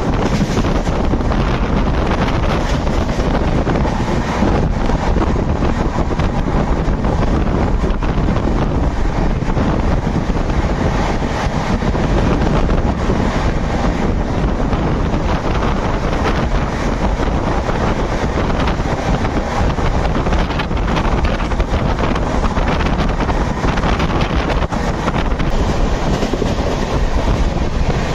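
Express passenger train running at speed, heard from an open coach doorway: a steady noise of the coach on the rails mixed with heavy wind on the microphone.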